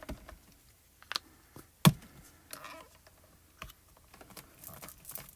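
Scattered light taps and clicks of a marker against paper and the desk as the reeds of a stamped panel are colored in, with one sharper knock about two seconds in.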